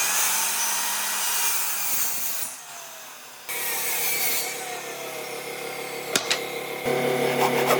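Power tools working wood in short edited pieces: a loud noisy cut into the wood for about two and a half seconds, a brief drop, then more cutting over a motor's steady hum, with sharp clicks and knocks near the end.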